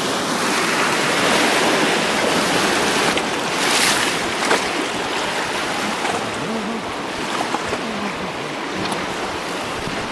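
Rushing river water, a steady loud wash of whitewater around a raft, swelling briefly about four seconds in.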